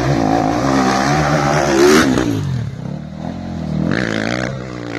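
Rally-raid motorcycle engine revving hard as the bike passes, its pitch rising and dropping with the throttle and gear changes. It is loudest about two seconds in, then fades away, and engine noise rises again briefly near four seconds.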